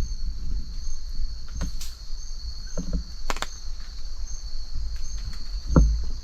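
Night insects such as crickets: a steady high-pitched trill with a shorter, higher chirp repeating about every two-thirds of a second. A few brief knocks stand out over it.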